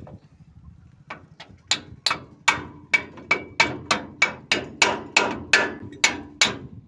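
A hand hammer beating metal in a steady rhythm of about three ringing blows a second. The blows start about a second in and grow louder about half a second later.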